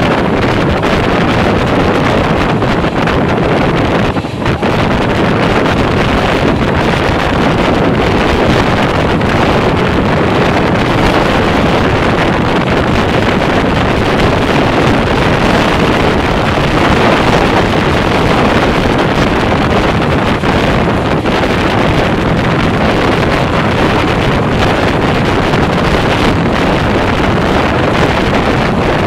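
Wind rushing loudly over a microphone held out of a moving express passenger train, mixed with the steady running noise of the coach on the rails.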